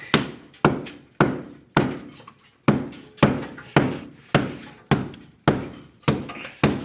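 Hammer striking the brick masonry of a fireplace chimney in steady blows, about two a second, with one brief pause a little before the middle.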